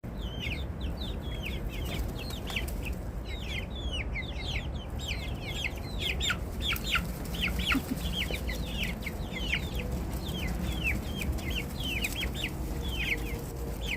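Chicks peeping insistently: many short, high, falling peeps, several a second and overlapping. This is the hungry calling of young birds waiting to be fed.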